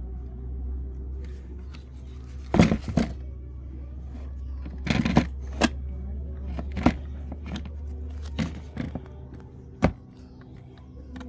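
A steady low hum with about eight sharp clicks and knocks at irregular intervals, the loudest about two and a half seconds in and near the end.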